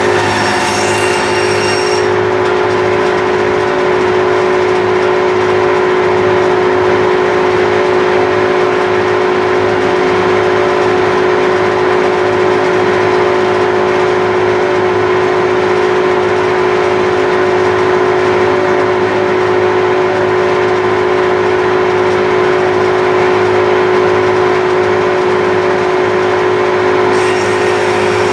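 Bandsaw motor and blade running steadily, with a constant hum.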